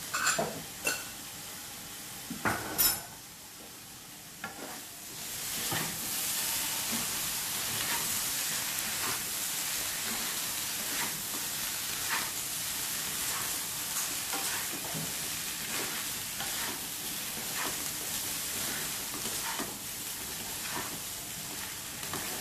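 Tofu and egg sizzling as they stir-fry in a granite-coated wok, with a spatula scraping through them every second or so. There are a few sharp clinks against the pan in the first few seconds, and the sizzle rises after about five seconds.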